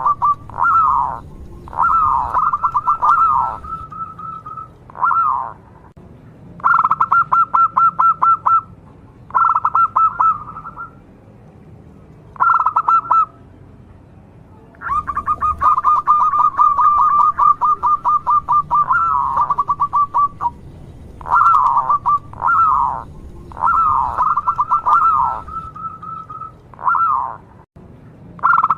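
Zebra dove (perkutut) cooing in quick, rolling phrases of about one to two seconds each, repeated with short pauses, and one longer run of about five seconds midway.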